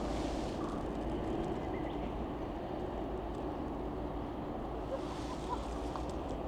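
Steady outdoor background noise with a low rumble, with a few faint light clicks about five seconds in.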